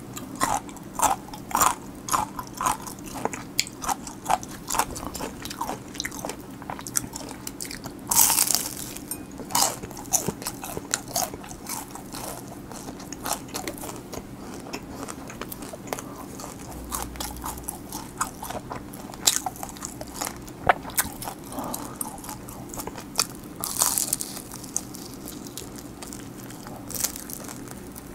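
Close-miked eating of crispy fried chicken: many sharp crunches as the coating cracks under the teeth, in clusters, with chewing between them.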